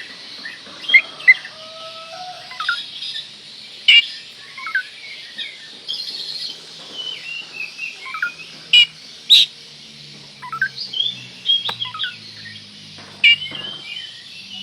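Oriental magpie-robin (kacer) in full song: a fast, varied string of whistled phrases and trills, broken by several loud, sharp calls.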